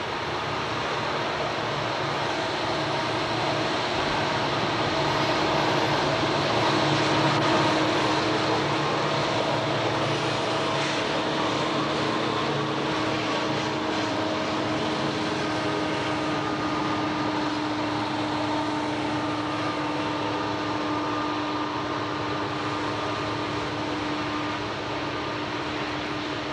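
Diesel freight locomotives running: a steady drone with a held hum, swelling to its loudest about seven seconds in and then easing off a little.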